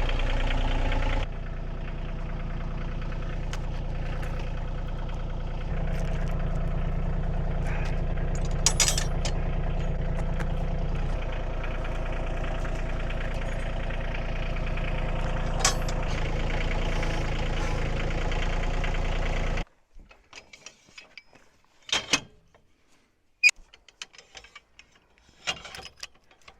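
Engine running steadily, stepping in level and pitch a few times, then shut off suddenly about twenty seconds in. A few light clicks and knocks follow.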